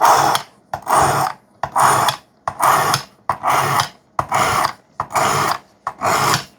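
A 3V steel knife blade drawn across a wet sharpening stone on a Work Sharp guided sharpener: eight even scraping strokes, a little more than one a second, each with a short pause between.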